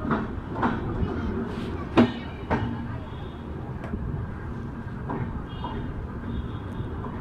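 Kashi Express coaches rolling slowly past over a rail joint, the wheels clacking in pairs about half a second apart over a steady rumble. The clacks thin out after about four seconds as the arriving train slows.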